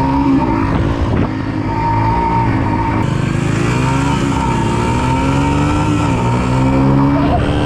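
Small single-cylinder four-stroke pit bike engines revving under acceleration. The pitch climbs and drops again several times as the bike is ridden through the gears.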